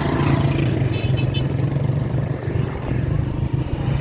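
A motor vehicle engine running steadily at a low, even pitch, with road noise.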